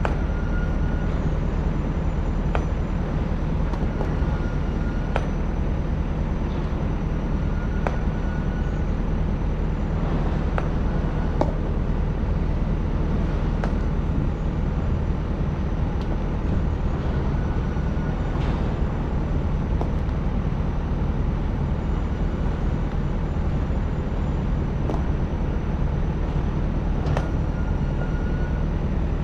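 Excavator diesel engine running steadily, with scattered sharp knocks and clanks from the machine at work.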